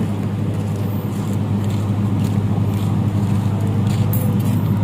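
Generator set engine running steadily at constant speed with an even low hum.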